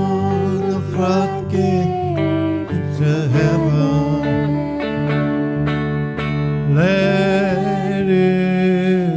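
A man singing a worship song to strummed acoustic guitar, holding long notes that slide into a new pitch about seven seconds in.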